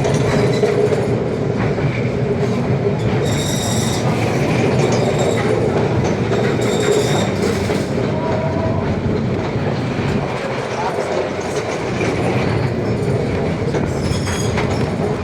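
Funicular car running on its rails with a steady rumble of wheels and track, and brief high-pitched wheel squeals a few times.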